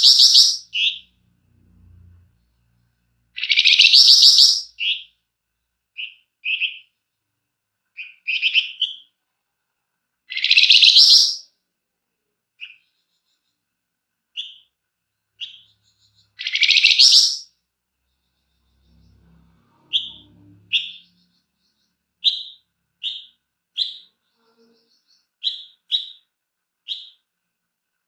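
Flamboyan bird calling, a lure recording for songbird training. Four loud, harsh, buzzy calls of about a second each come roughly every six seconds, with short sharp chirps between them. In the second half there is a quick series of short chirps about one a second.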